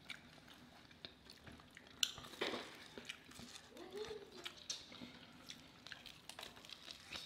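Close-miked eating of fried chicken and biscuits: soft, wet chewing with scattered sharper clicks of biting, the loudest about two seconds in.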